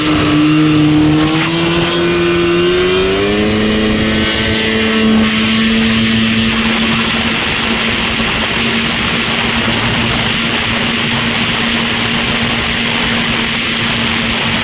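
Rotax 503 two-stroke twin snowmobile engine rising in pitch over the first four seconds, then running steadily at high revs over a constant hiss.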